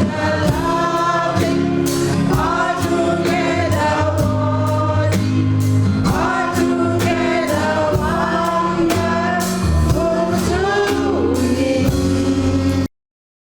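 Gospel choir singing over instrumental backing with a steady beat, cutting off suddenly near the end.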